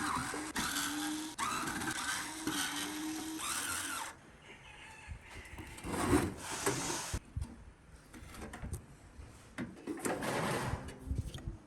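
A small handheld power tool runs with a steady, slightly rising whine for about four seconds, then stops. Irregular scraping and rubbing follow, loudest about six seconds in and again near the end.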